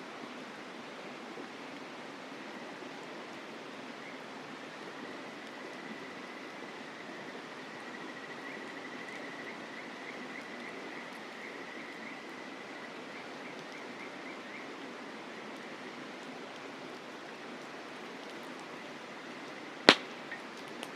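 Mountain stream flowing steadily, with an insect trilling on one high note that breaks into quick chirps midway. About a second before the end, a campfire gives one sharp, loud pop.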